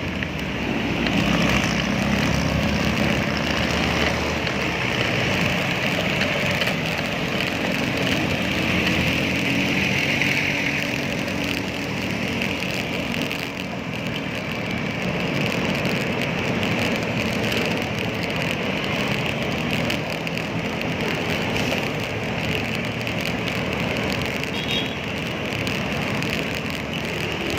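Steady city road traffic, with motor vehicles running close by, heard while riding a bicycle.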